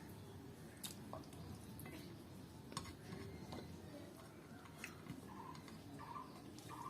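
Quiet eating sounds of rice and curry being eaten: scattered soft clicks and mouth smacks of chewing. From about five seconds in, a short note repeats several times.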